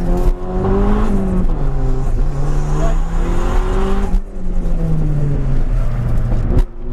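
Toyota Celica GT-Four ST185's turbocharged four-cylinder engine driven hard, heard inside the cabin, its note rising and falling repeatedly as it accelerates and lifts. The note breaks briefly about four seconds in and again near the end.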